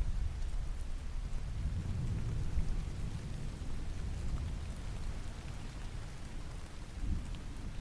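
Steady rain with fine drop patter over a low rumble of distant thunder. The rumble eases at the start and swells again near the end.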